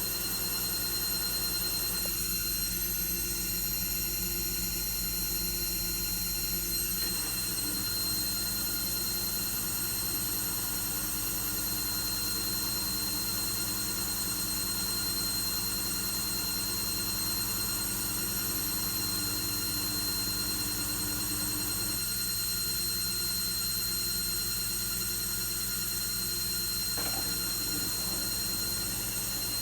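Logik L712WM23 washing machine running, a steady whine of several high tones over a low hum that shifts a few times.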